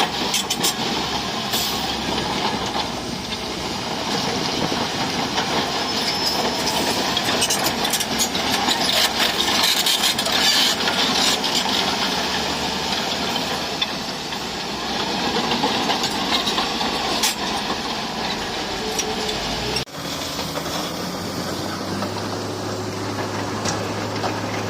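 Crawler bulldozer working: the diesel engine runs under load while the steel tracks clank and click. About twenty seconds in the sound drops out for an instant and comes back steadier, with a low engine drone.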